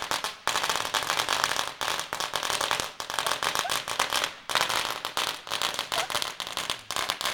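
Fireworks crackling: a dense, continuous run of rapid small pops and bangs, broken by a few short lulls.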